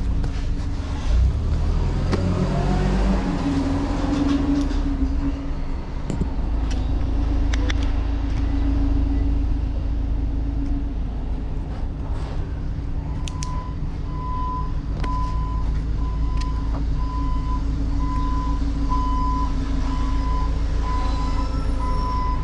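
A heavy diesel vehicle's engine runs with a steady low rumble and rises in pitch briefly a few seconds in. From about halfway through, a back-up alarm beeps steadily, roughly once a second.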